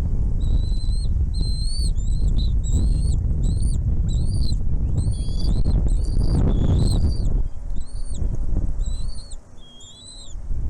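Small birds at a nest chirping: short, arched, high calls repeated about twice a second, over a heavy low rumble that drops away briefly near the end.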